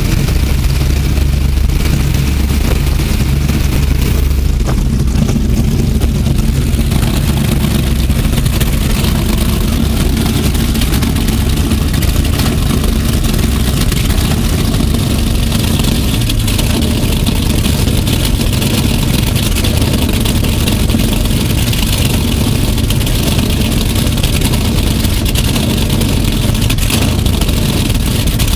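Apache 41 powerboat's engine running steadily at idle after being started, with a deep, even note.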